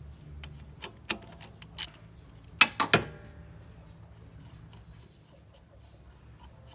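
Hand tools and metal parts clicking and clinking while the fuel shut-off valve on a 4D56 diesel engine is being taken apart. A few scattered sharp clicks, then a quick loud run of three clinks about two and a half to three seconds in.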